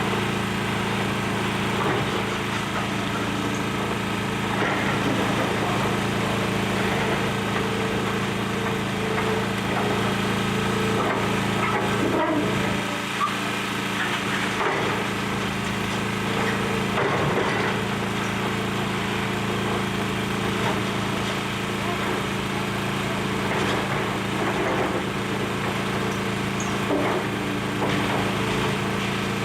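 Excavator's diesel engine running steadily while building debris cracks, splinters and crunches irregularly as the structure is torn down.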